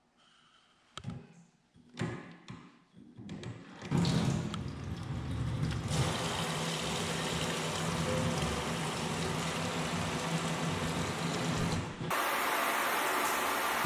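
A few knocks and clatters, then water running hard from a tap into a sink, steady for about eight seconds. Near the end it changes abruptly to a different steady rushing noise.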